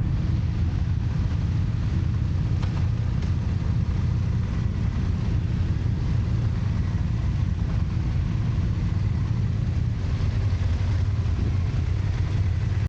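Motorcycle engine running steadily, a low even hum with no revving.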